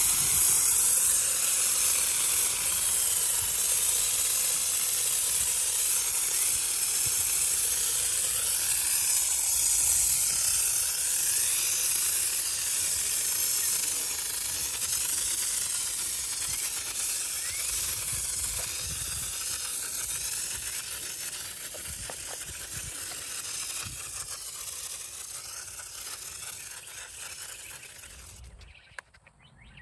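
IK Foamer Pro 2 hand-pump foam sprayer with its dry-foam tip spraying car-wash soap: a steady hiss that slowly fades and cuts off about a second and a half before the end.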